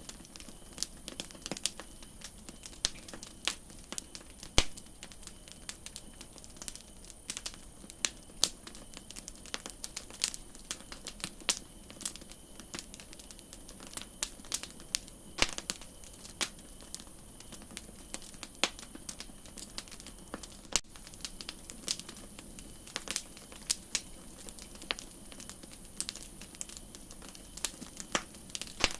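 Wood campfire crackling: irregular sharp pops and snaps, several a second, over a soft steady hiss. The hiss turns brighter about two-thirds of the way through.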